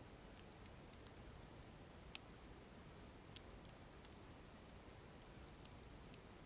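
Burning firewood crackling in a campfire: faint, scattered sharp pops and snaps at uneven intervals over a low steady hiss, with the loudest pop about two seconds in.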